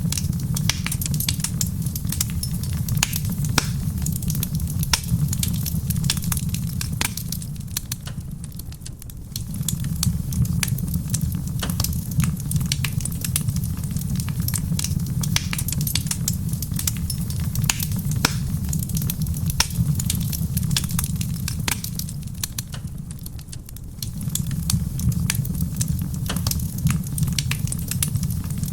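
Wood fire in a stone fireplace crackling, with many sharp pops over a steady low rumble and soft rain mixed underneath. The low rumble eases off briefly twice, about a third of the way in and again near the end.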